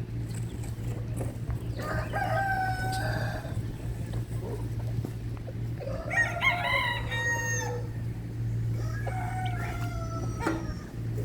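Roosters crowing: three long crows, about two, six and nine seconds in, over a steady low hum.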